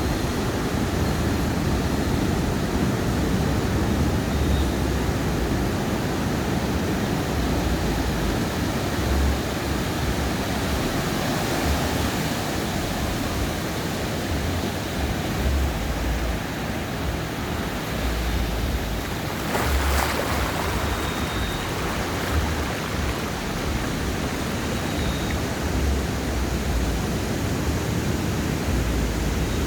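Ocean surf on a beach: a steady hiss of breaking and washing waves, with an irregular low rumble throughout and a brief louder rush about twenty seconds in.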